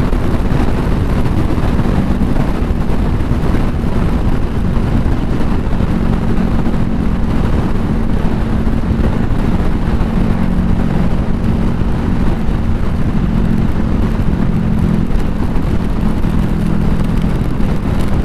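Honda CBR500R's parallel-twin engine holding a steady pitch at highway cruise, under a constant rush of wind and heavy rain noise.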